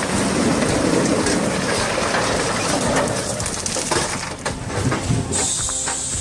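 Heavy forestry machinery working on timber: a dense, noisy clatter with crackling. A high steady hiss and a hum join about five seconds in.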